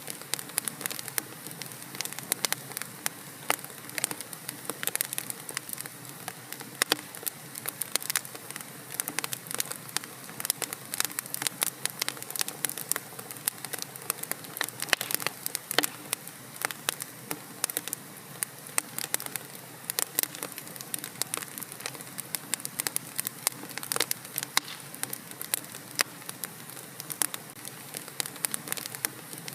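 Wood fire burning in a fireplace, crackling with many irregular sharp pops over a soft steady hiss.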